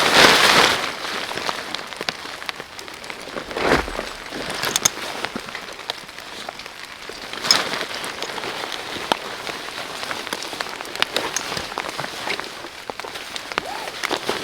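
Rain falling steadily, with many separate drops ticking on a surface. A few louder brief noises stand out near the start, about four seconds in, and about seven and a half seconds in.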